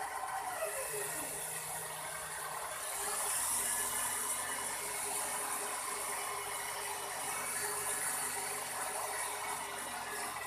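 Electric motors and rotors of a toy RC helicopter running, a steady whir with a high whine; one tone slides down in pitch about half a second in as the throttle changes.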